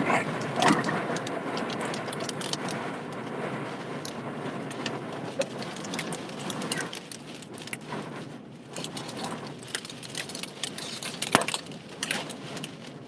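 Tornado winds and rain rushing over a vehicle, with many sharp clicks and knocks of debris striking it, and two hard hits, one just under a second in and a louder one late on.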